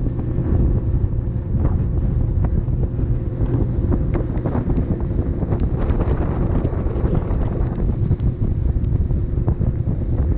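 Heavy wind buffeting the microphone on an open boat, with a steady low hum underneath and a few light knocks.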